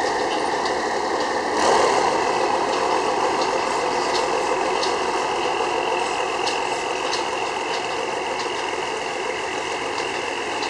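Thaksinarath express passenger train reversing slowly through the yard: a steady engine hum with faint, repeated light clicks, getting louder about a second and a half in.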